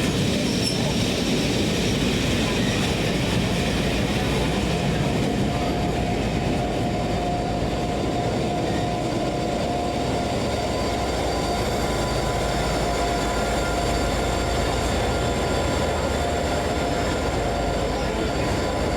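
A train running at a steady level: a constant low rumble with a few thin steady tones over it.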